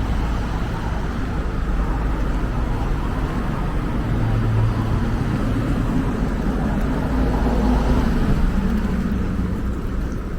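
Street traffic: a steady low rumble of road noise, with a car engine and tyres swelling past from about four seconds in, loudest near eight seconds.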